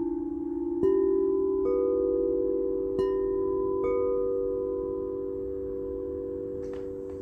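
Singing bowls struck four times in the first four seconds, their tones overlapping and ringing on, slowly fading.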